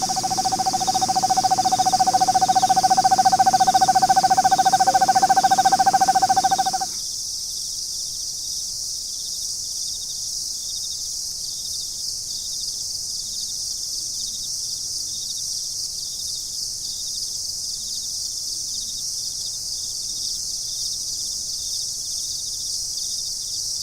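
Eastern screech owl giving its monotone trill, a rapid, even trill on one pitch that stops suddenly about seven seconds in. A steady high hiss runs throughout.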